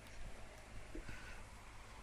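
Faint soft knocks and handling sounds from a baby playing with a mango, with a brief faint squeak about a second in, over low room tone.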